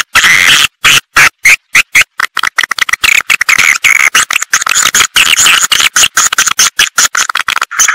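Edible-nest swiftlets twittering: a fast, dense run of short high chirps broken by many brief gaps. This is a swiftlet lure recording, played to draw the birds into a nesting house.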